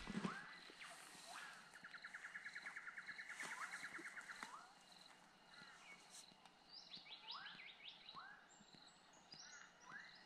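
Faint birdsong from several birds in open bush: a rapid trill lasting about three seconds, several short upswept whistles, and a steady string of high peeps, with quick falling high notes near the end.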